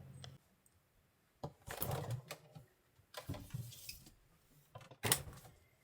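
Cooking gear being handled in a small camper kitchen: three short bouts of clattering and clinking, with quiet between them.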